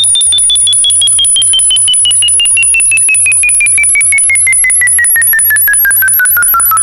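Electronic frequency track: a pure tone sliding steadily down in pitch over rapid, even electronic pulsing. Steady high tones and a low repeating throb run underneath.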